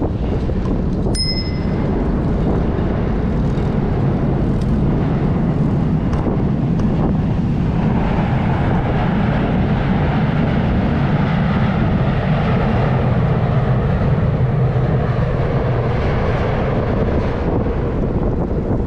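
Strong wind buffeting a bike-mounted GoPro's microphone while riding: a loud, steady rumble. A brief high ding sounds about a second in.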